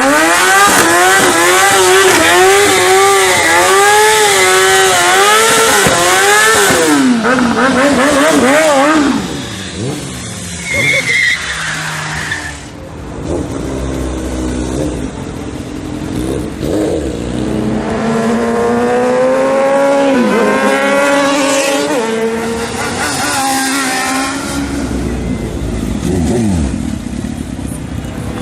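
Sport motorcycle engines revving hard, the pitch jumping up and down in quick blips for the first several seconds. After a quieter stretch, another run of revving and accelerating follows, dying down near the end.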